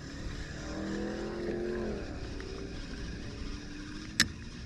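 An engine passing at a distance, its pitched hum rising slightly and then dropping away about two seconds in. A single sharp click comes near the end.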